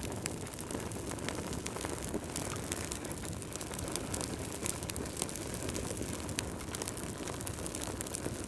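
Wood fire burning in a fireplace: a steady low rush of flame with frequent small crackles and pops.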